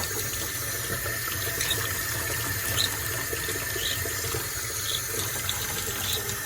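Tap water running steadily into a sink, with faint brief high sounds about once a second.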